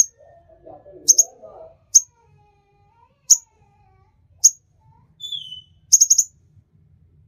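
A sunbird calling: short, sharp, high chips about a second apart, a quick run of chips near the end, and one short falling whistle just before it.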